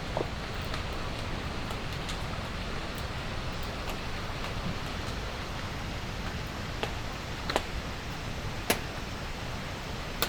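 Steady rain falling, an even hiss, with a few sharp ticks of single drops hitting close by: the clearest about seven and a half, eight and a half and ten seconds in.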